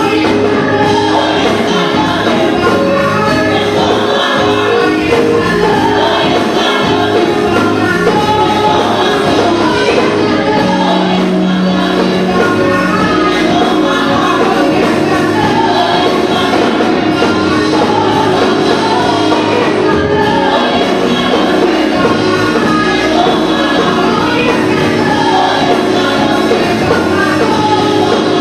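Gospel choir singing with a live band accompanying.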